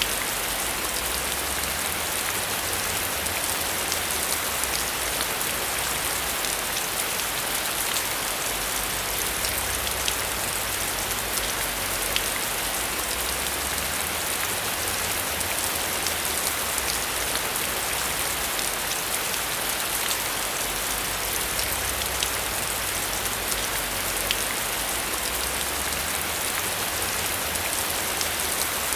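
Heavy rain falling steadily: a dense, even hiss with many separate drops ticking through it.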